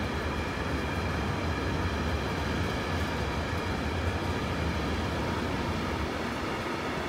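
Freight train of rail tank wagons rolling past at steady speed: a continuous rumble of wheels on rails, strongest low down, with faint steady high tones above it.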